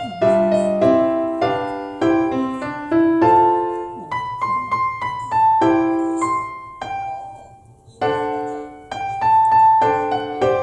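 Background piano music: a slow melody of single struck notes and chords, each note ringing and fading.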